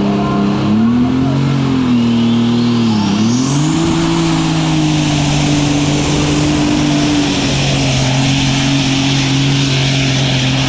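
Superstock pulling tractor's turbocharged diesel engine running hard under load while it pulls the sled. Its pitch wavers, dips briefly about three seconds in, then holds steady. About two seconds in, a high whistle climbs steeply over a couple of seconds and then holds.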